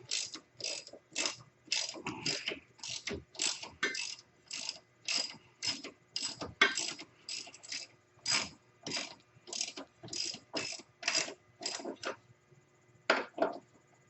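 Hand ratchet wrench clicking in repeated strokes, about two a second, as it turns a bolt; the strokes stop after about twelve seconds, then two more come near the end.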